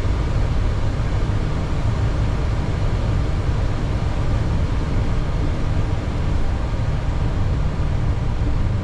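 Steady low rumble and hiss inside a Boeing 737 cockpit as the aircraft taxis after landing.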